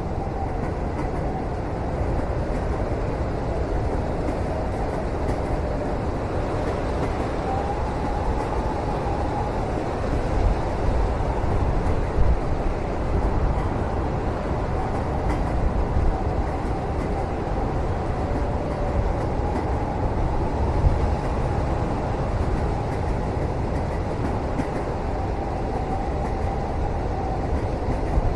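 Steady low rumble of a moving train heard from inside a passenger cabin, with a faint wavering whine and a few brief knocks from the running gear.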